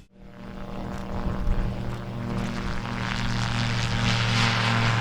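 AutoGyro Calidus autogyro flying, its Rotax flat-four pusher engine and propeller running at a steady pitch, growing louder over the first few seconds.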